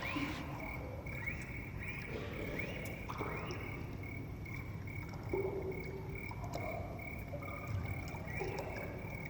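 Ambient soundscape music: a steady, gently pulsing high tone over a constant low rumble, with soft short tones drifting in and out.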